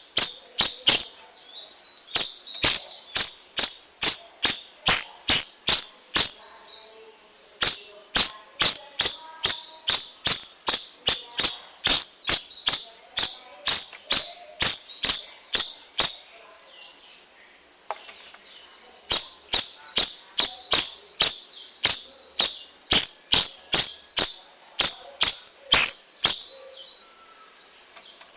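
Cucak rawis bird singing a rolling series of sharp, high chirps, about three a second, in long runs broken by three short pauses.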